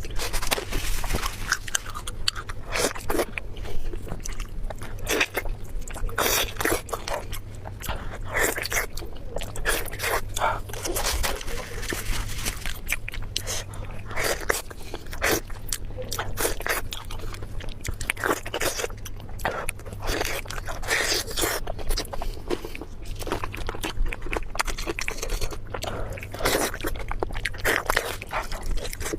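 Close-miked eating sounds: a person biting and chewing food, with many irregular short crunches and wet mouth clicks.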